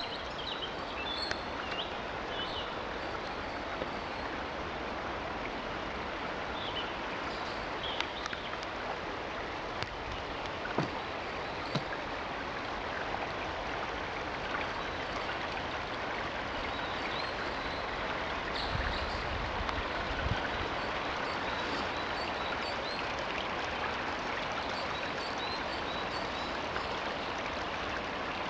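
Forest stream running steadily, an even rushing of water, with a few faint high chirps over it.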